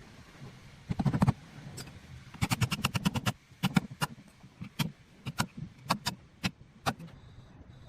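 A series of sharp clicks and knocks, of hard parts being worked by hand: a short cluster about a second in, a quick run of about ten a second, then single knocks about every half second.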